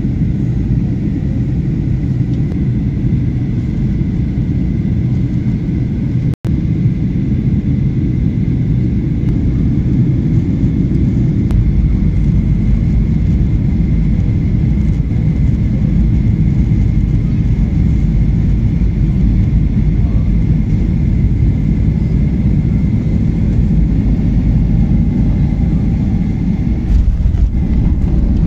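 Passenger airliner cabin noise during the landing approach: a steady rumble of engines and airflow with a faint high whine. There is a brief dropout about six seconds in, and the low rumble grows heavier about a third of the way through.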